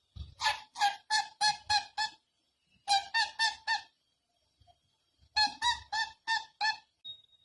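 Indian ringneck parrot giving strings of short, sharp repeated calls: about seven in a quick run, then four, then five, with brief pauses between the runs.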